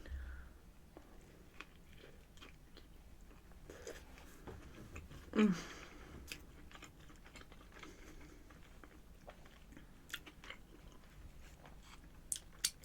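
Close-miked mouth sounds of a person eating: quiet chewing and biting with scattered small wet clicks, and one brief falling vocal sound about five seconds in.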